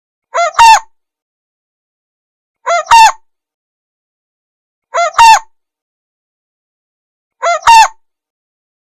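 Cu rốc bird calling: four identical calls, about every two and a half seconds, each a short note followed at once by a louder, rising-then-falling, nasal-toned note, with dead silence between calls, like a looped call recording.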